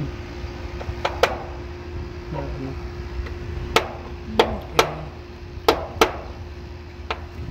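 Sharp clicks and knocks of hand tools and parts being handled during work on an air conditioner's run capacitor, about eight in all at uneven intervals, over a faint steady hum.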